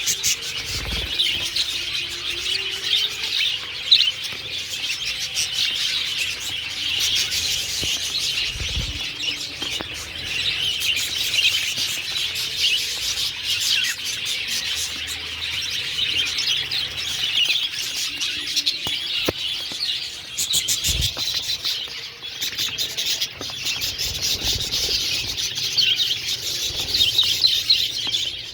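Many small birds at a bird farm chirping all together in a dense, unbroken chatter, with a few low thumps.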